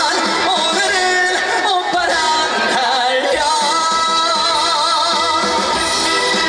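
Live trot song with its backing band, singing over the accompaniment; about halfway through, a long note with vibrato is held.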